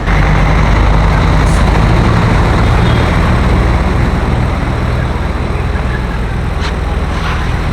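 A road vehicle's engine running close by: a loud, steady low rumble that comes in suddenly at the start, over street traffic noise.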